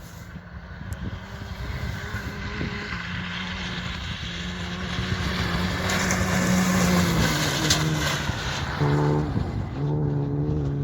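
Rally car on a special stage approaching, its engine growing steadily louder over the first six seconds or so. The engine note steps up and down, then holds a steadier note near the end.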